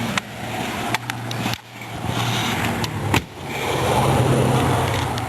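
Car engine idling with a steady low hum, with a few sharp clicks and knocks over it.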